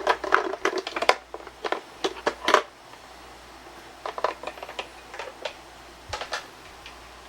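Irregular light clicks and taps from small objects being handled, a quick run in the first couple of seconds and another from about four seconds in.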